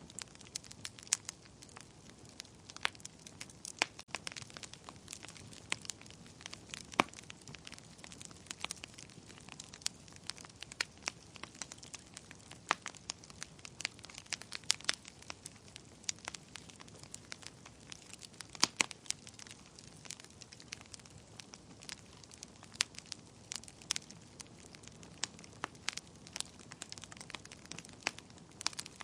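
Wood fire burning in a fireplace, crackling with frequent sharp, irregular pops over a low steady hiss.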